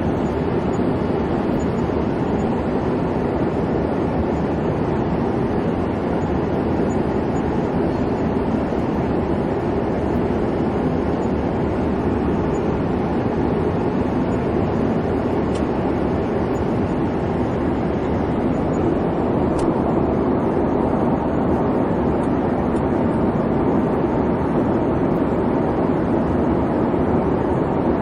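Airliner cabin noise in flight: a steady, even rumble of engine and airflow, strongest in the low range, without change.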